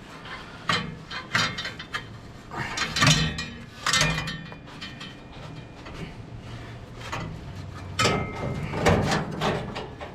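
Irregular metal clanks and knocks from tools and parts on an engine with its cylinder head off, a few ringing briefly; the loudest come about three, four and nine seconds in.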